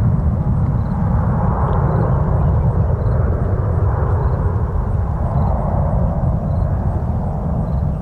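Jet airliner's engine noise passing overhead: a loud, steady deep rumble with a hiss that swells and eases slowly.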